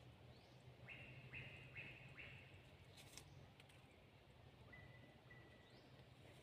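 Faint bird calls in quiet forest: four quick, short high notes in a row, then a couple of clicks and a thin, level whistle, over a low steady hum.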